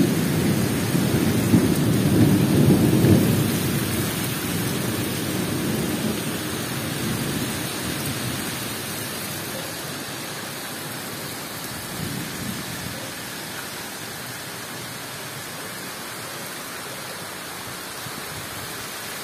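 Heavy tropical downpour with an even, steady hiss of rain. A low rumble of thunder in the first few seconds dies away, leaving only the rain.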